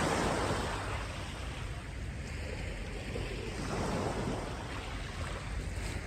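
Sea waves washing onto the beach, with wind buffeting the microphone; the wash swells again about four seconds in.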